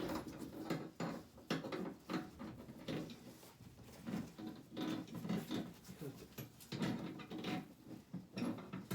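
Irregular knocks, scrapes and rattles of an air conditioner indoor unit being handled and hooked onto its ceiling hanging bolts.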